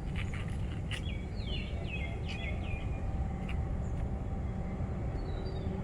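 A small bird gives a quick run of short falling chirps over a steady low outdoor rumble, with a few sharp clicks.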